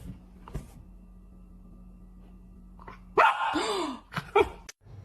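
A dog gives one loud bark about three seconds in, with a pitch that rises and falls. Two short, quieter sounds follow.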